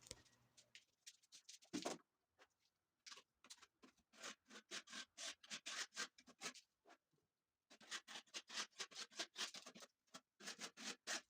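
Putty knife spreading finishing putty on a wall: faint, quick, short scraping strokes in runs broken by brief pauses.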